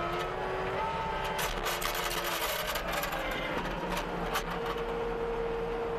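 CASE TR270B skid steer's diesel engine and hydraulics running under load, driving a rototiller attachment. A whining tone shifts higher about halfway through, with scattered sharp clicks and ticks over the steady machine noise.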